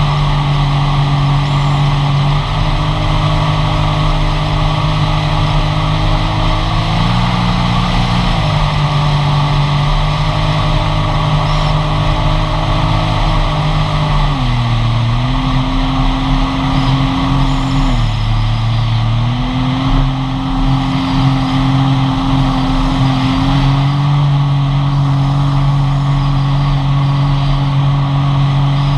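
Sea-Doo GTI jet ski engine running at a steady cruise over a steady rushing hiss. Its pitch steps up about a quarter of the way in, drops briefly twice in the middle as the throttle is eased, then settles again.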